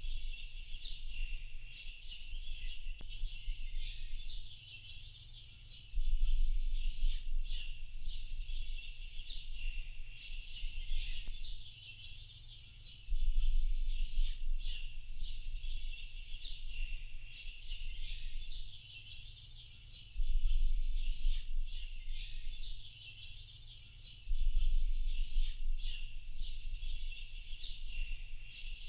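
A dense chorus of many small birds chirping and twittering without pause, high-pitched, over a low rumble that swells for a few seconds at a time about every seven seconds.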